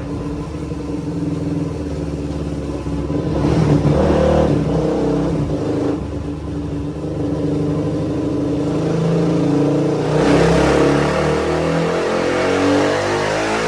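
Suzuki DR-Z400's single-cylinder four-stroke engine revving hard on a dyno through an MRD Z-Pro aftermarket exhaust. It gets louder and harsher from about ten seconds in as the revs climb.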